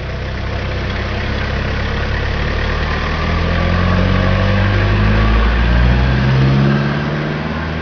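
Toyota TownAce truck engine running, growing louder over several seconds while its pitch rises, then easing off near the end.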